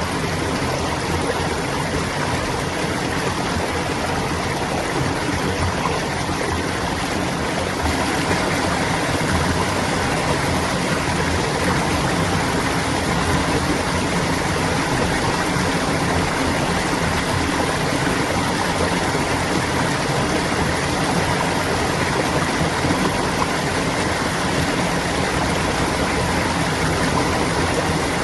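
Clear water flowing and babbling in a stream, a steady, even rush that grows slightly louder about eight seconds in.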